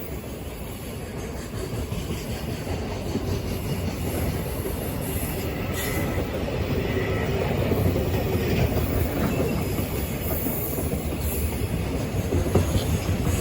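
Freight train hauled by a JR Freight EF210 electric locomotive running through a station: a steady rumble of wheels on rail that grows gradually louder, with a brief thin wheel squeal about six seconds in.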